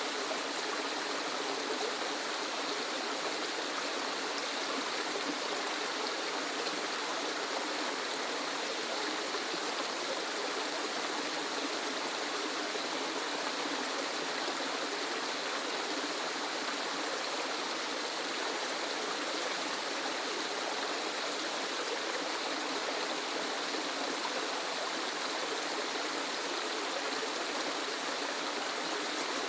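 Waterfall: a steady, unbroken rush of falling water, even in level, with little deep rumble.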